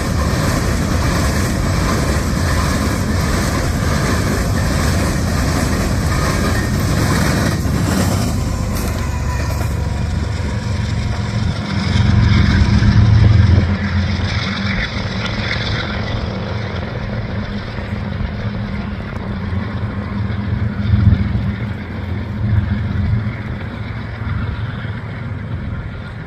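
Passing train: a broad rumble that thins out about eight seconds in, leaving a low engine drone that swells a few times.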